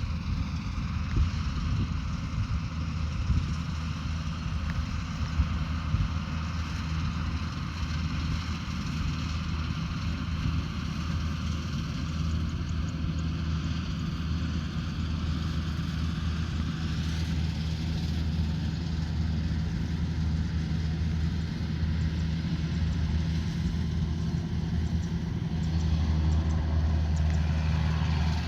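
Diesel engine of a rice combine harvester running steadily with the mechanical clatter of its working parts, with a few sharp knocks in the first six seconds and slightly louder near the end.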